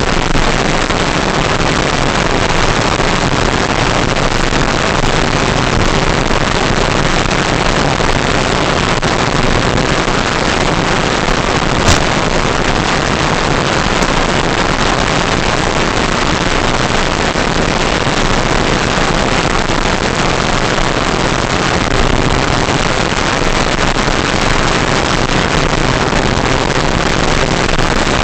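RC Cessna 182 model plane in flight: a loud, steady rush of wind and propeller noise, with one short click about twelve seconds in.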